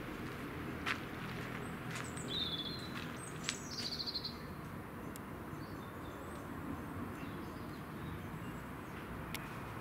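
Small songbirds chirping, with two short high trills about two and three and a half seconds in, the second falling in pitch, over a steady low outdoor background noise. A few sharp clicks come through, the loudest about a second in and again with the second trill.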